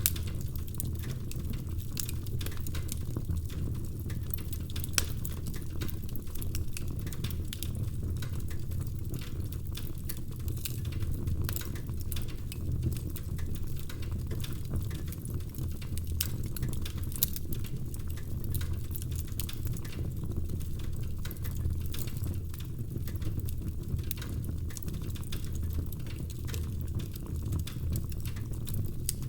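Log fire crackling: many small, irregular snaps and pops of burning firewood over a steady low rumble of the flames.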